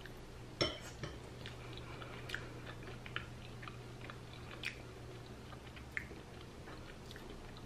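A person chewing a small soft bite of plant-based tuna with mayo, with faint wet mouth clicks scattered through, the sharpest about half a second in, over a steady low hum.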